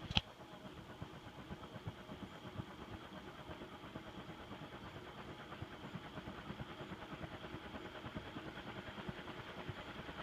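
TAT industrial ceiling fan spinning up on high speed: a steady whir with rapid low pulsing that grows slowly louder as the heavy blades gather speed. A sharp click just after the start.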